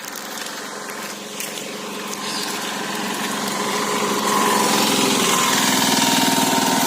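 A small engine running, growing louder over the first four seconds or so, then holding steady.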